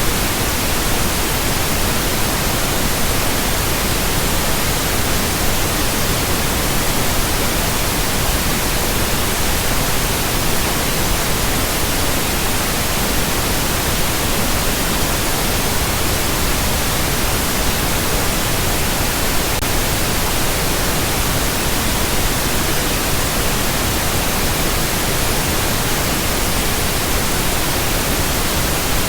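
Steady pink noise: an even, unchanging hiss spread across the whole range, with no breaks or events.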